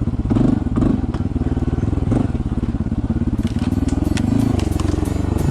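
Honda CT125's single-cylinder engine running at low trail speed with a steady, fast pulse. Scattered knocks and clatter join in from about three seconds in as the bike rides over rough ground.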